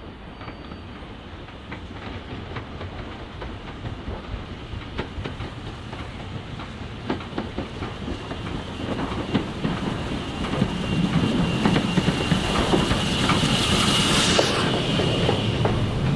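A train approaching on the track, the clickety-clack of its wheels over the rail joints growing steadily louder. A high hiss builds and then falls away about fourteen seconds in as the train comes close.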